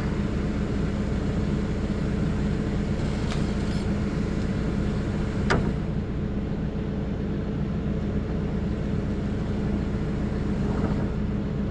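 Farm tractor's engine running steadily, a low even hum, with a sharp click about halfway through.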